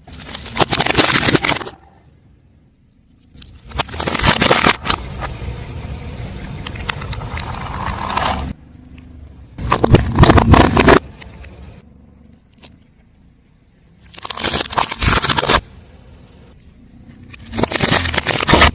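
Car tyre rolling over and crushing crunchy objects, giving loud crunching and crackling in about five separate bursts, one of them drawn out for several seconds, with quieter car noise in between.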